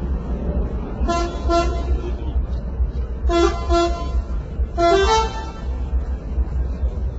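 Truck 'telolet' multi-tone horn playing short toots: two quick pairs of notes, then a longer note that rises in pitch, over a steady low rumble.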